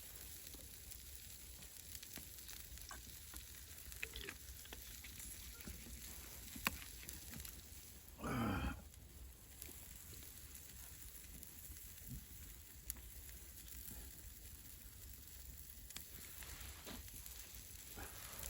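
Meat kebabs sizzling faintly over a campfire, with scattered small crackles and pops. A brief louder sound comes about eight seconds in.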